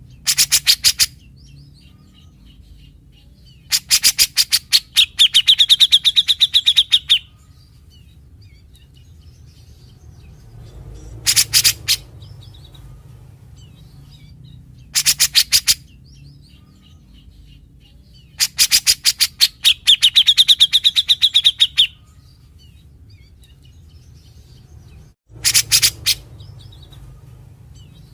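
A grey-cheeked bulbul (cucak jenggot) sings in separate bursts of fast, harsh, rattling notes, about ten a second. Most bursts last about a second. Two longer phrases pass into a higher, steadier whistled stretch. A low steady hum runs underneath.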